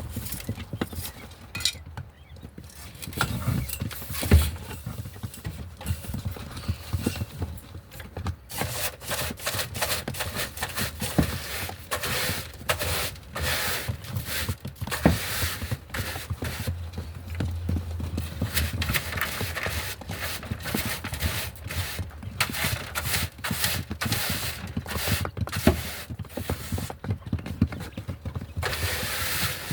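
Pet birds moving about on hard surfaces: quick, irregular tapping and clicking all through.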